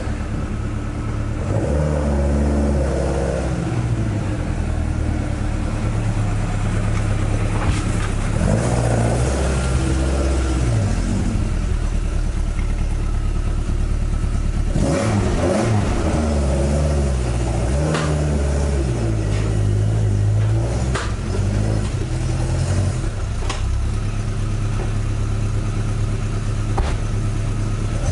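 Toyota AE86's 5-valve (20-valve) 4A-GE four-cylinder, fed by Weber carburettors and breathing through a coiled exhaust manifold into the stock muffler, running at low speed with its engine note rising and falling over several revs as the car moves off and pulls in.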